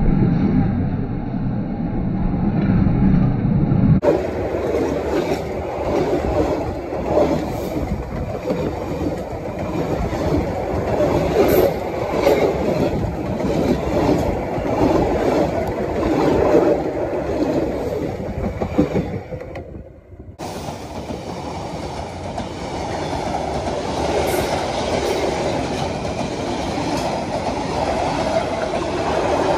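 Passenger train carriages running past close by: a steady rumble with the clatter of wheels over the rail joints.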